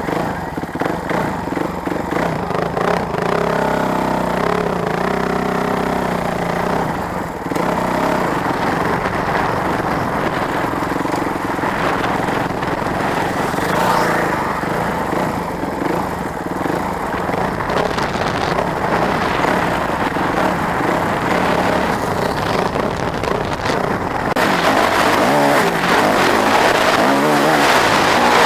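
Motorcycle engines running and revving, the pitch rising and falling in spurts over a steady background of engine noise.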